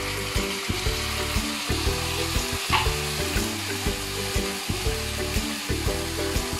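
Canned sardines in tomato sauce sizzling in a hot frying pan with sautéed garlic and onion, stirred with a wooden spatula. Background music with a steady beat plays over it.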